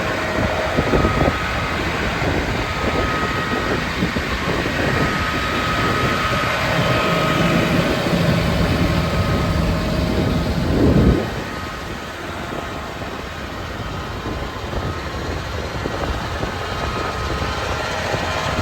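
John Deere 9R 440 tractor's 13.6 L six-cylinder diesel engine running steadily. There is a loud swell about eleven seconds in, and the sound is somewhat quieter after it.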